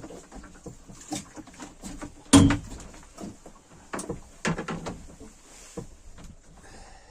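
Irregular knocks, clicks and clatter of handling in a small boat, with one loud thump about two seconds in and a burst of knocks about four seconds in.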